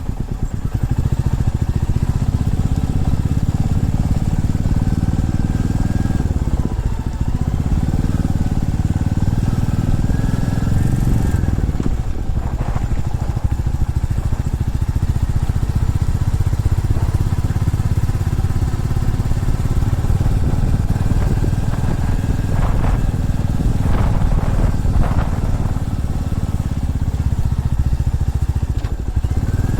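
Single-cylinder motorcycle engine running steadily as the bike is ridden along, its sound dipping briefly a few times.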